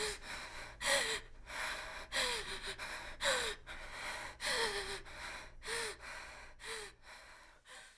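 A woman breathing heavily: quick breaths about one a second, most ending in a short voiced gasp that falls in pitch, growing fainter near the end.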